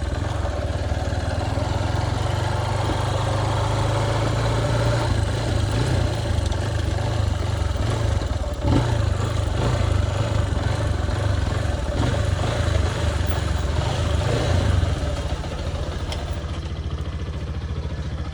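Motorcycle engine running as the bike rides along. About 15 seconds in it drops to a lower, quieter, steadier note as the bike slows.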